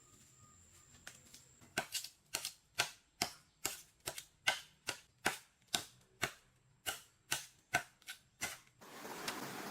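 A run of sharp, evenly paced knocks, about two and a half a second, then a steady rushing noise that starts near the end.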